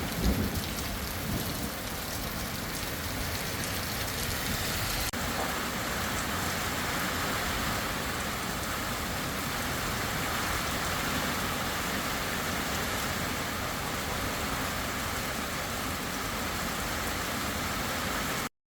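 Heavy rain falling steadily in a dense hiss, with a low thunder rumble dying away in the first second or two. The sound cuts off abruptly near the end.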